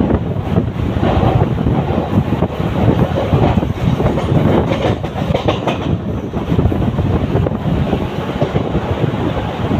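Mumbai suburban local electric train running along the track, with a continuous rumble and a few wheel clacks over rail joints about halfway through.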